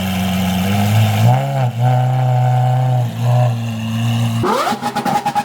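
A car engine idling, blipped briefly about a second and a half in, then revved hard near the end, rising quickly and breaking into a fast stutter.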